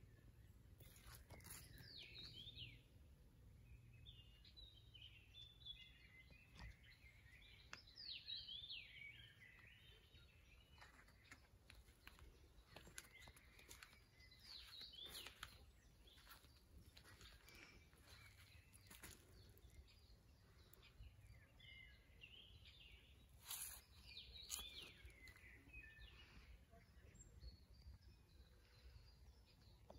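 Faint songbird chirping in quick phrases that come and go, most active around 8 and 24 seconds in, over a low steady background rumble, with scattered light clicks.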